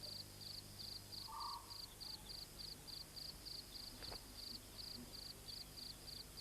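Faint insect chirping in a steady rhythm of about three high chirps a second, with a short lower call about a second in.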